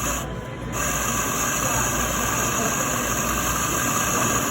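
Commercial espresso grinder running steadily, grinding coffee beans through to purge the residue of grinder-cleaning tablets, with a brief dip about half a second in.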